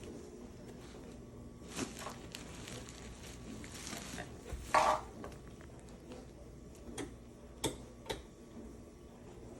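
A puppy rummaging in a basket of toys packed in bags: scattered rustling with light clicks and knocks, and one louder rustle about five seconds in.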